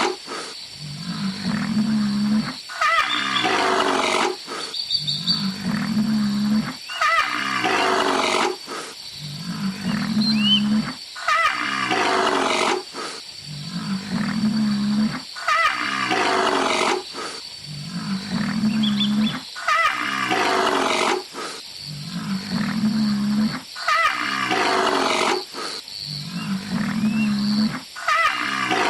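A large wild animal calling over and over, a low call alternating with a higher, rough cry about every two seconds, in an even, repeating rhythm.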